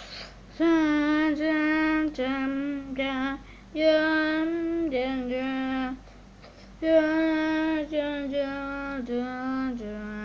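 A high voice singing a slow melody in held notes, phrased in short groups with brief pauses. Near the end it slides steadily upward in pitch.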